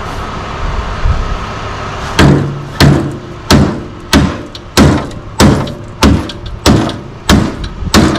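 Hammer blows in a steady rhythm, about ten strikes at roughly one and a half a second, starting about two seconds in, each with a short ring, typical of a hammer striking metal.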